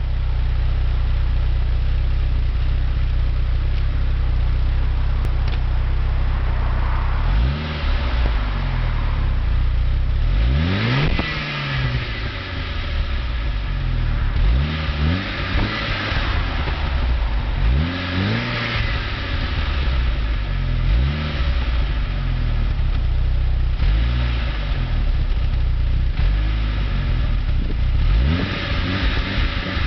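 A 1999 Saab 9-3 SE's turbocharged 2.0-litre four-cylinder engine, fully warm, idling through its stock exhaust. After about seven seconds it is blipped up and let fall back to idle again and again, six or seven free revs in all.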